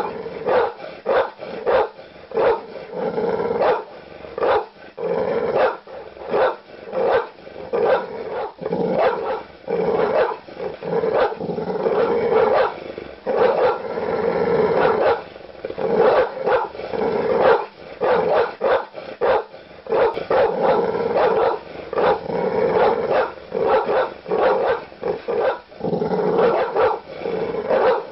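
Large dog barking aggressively and without let-up: loud, deep barks coming a few a second, with a growling edge.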